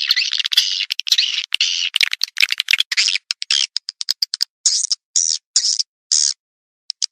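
Swiftlet calls: dense, rapid high chirps and twittering trills with sharp clicks, thinning out in the second half to separate short chirps about half a second apart. It is a swiftlet lure call, the sound played from a swiftlet house to draw the birds in to roost and nest.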